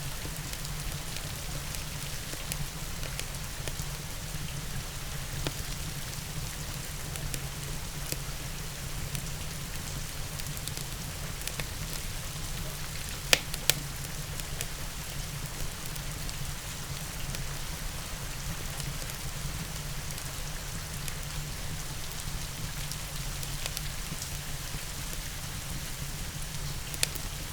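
Steady rain mixed with a wood fire crackling in a fireplace. Sharp pops about halfway through (two close together) and again near the end.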